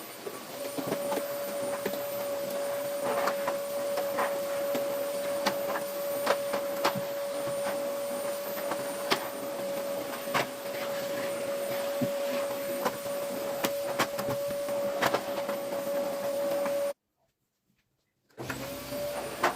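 Vacuum cleaner running with a steady whine, with scattered small knocks and clicks as it is moved about. The sound cuts out for about a second and a half near the end, then runs again.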